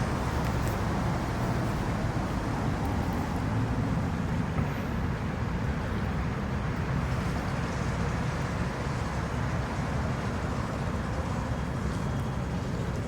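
Boat engines running with a steady low rumble.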